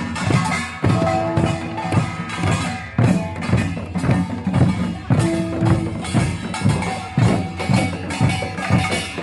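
Korean samul nori percussion ensemble playing a driving rhythm: rapid drum strokes over gongs that ring on continuously.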